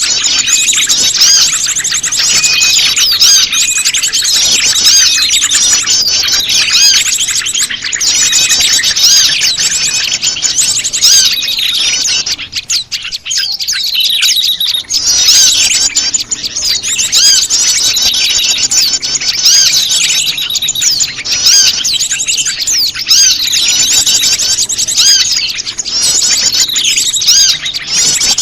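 Bird-lure recording of prenjak lumut calls mixed with a busy chorus of many small birds chirping and twittering, dense and overlapping, with a short lull about twelve seconds in. It is played to draw wild prenjak lumut in.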